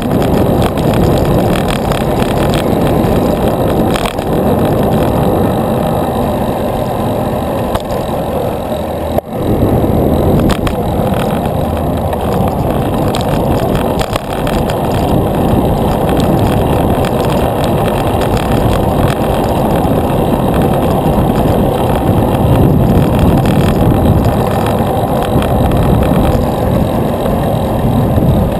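Loud, steady rushing noise of riding a bicycle along a road, with motor traffic running alongside.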